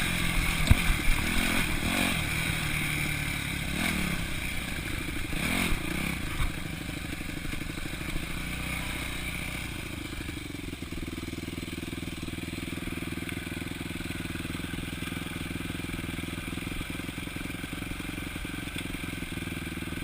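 Four-stroke single-cylinder dirt bike engine revving, with knocks and clatter over the first several seconds, then settling to a steady, quieter run from about seven seconds in.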